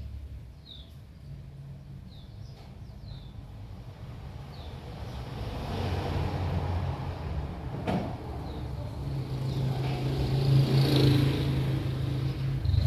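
A motor vehicle going past: a low engine hum and road noise that grow steadily louder from about five seconds in, peaking near the end.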